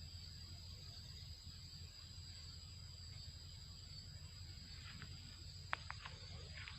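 Faint outdoor ambience with a steady high insect drone, and a few short clicks near the end.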